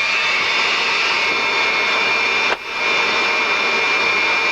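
Jet engines of the Frecce Tricolori's Aermacchi MB-339 trainers running with a steady high whine over a rushing noise. A little past halfway the sound drops out for a moment and comes straight back, a break in the recording.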